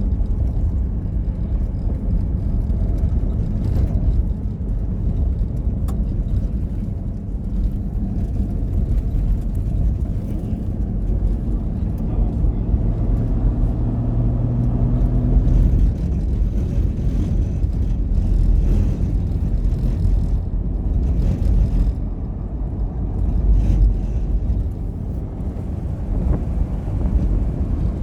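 Motor vehicle driving: a steady low rumble of engine and road, with an engine hum that stands out for a few seconds about halfway through.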